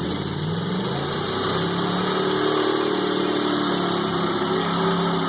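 Lifted mud truck on 44-inch bogger tyres running hard through a mud hole, its engine rising in pitch over the first two seconds and then held at high revs, with a loud hiss over it.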